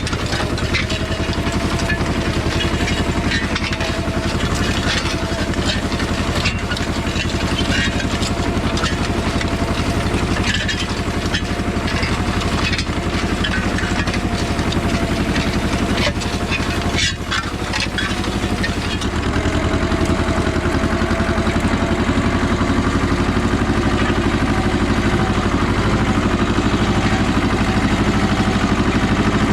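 Goldoni 933 RS DT compact tractor's diesel engine running steadily while pulling a disc harrow, with irregular rattles and knocks over it. A little past halfway the knocking dies away and the engine note shifts, running smoother and slightly louder.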